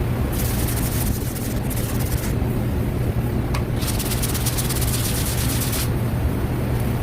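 Sanding block rubbed in long strokes over cured body filler: a scratchy hiss that comes and goes in stretches of about two seconds, over a steady low hum.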